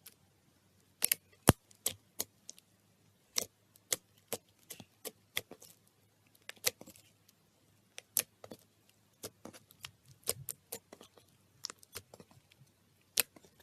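Slime being handled by hand, giving irregular sharp pops and clicks at uneven intervals.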